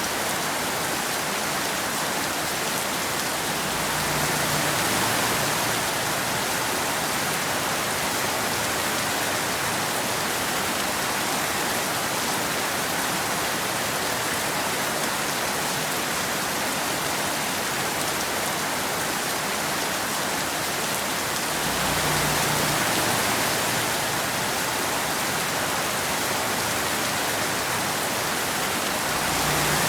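Steady rain, a dense even hiss of falling drops, swelling slightly louder and deeper three times: about four seconds in, about two-thirds through, and near the end.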